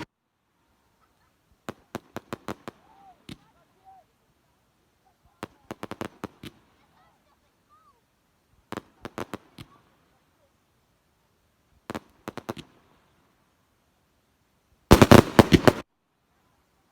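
Fireworks going off in clusters of rapid, sharp bangs, five bursts a few seconds apart. The last, about fifteen seconds in, is the loudest and densest.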